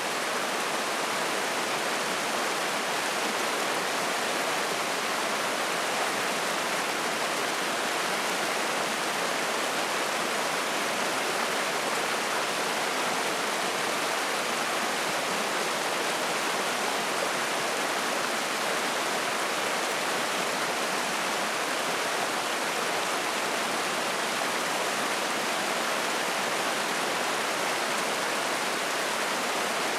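Spring-fed mountain stream rushing and splashing over rocks in a steady, unbroken hiss of water.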